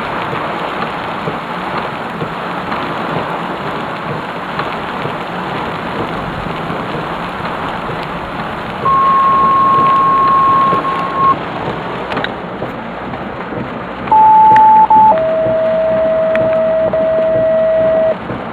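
Heavy rain pouring steadily. Three loud electronic tones sound over it: a higher tone held for a couple of seconds about halfway through, then two lower tones stepping down near the end.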